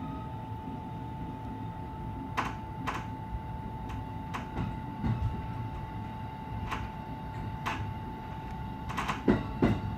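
Inside a JR electric train: a steady high hum with scattered sharp clicks and knocks, the loudest of them bunched together near the end.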